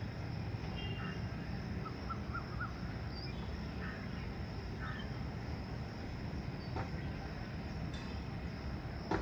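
Steady low outdoor rumble with a few faint bird chirps about two seconds in and two short knocks later on.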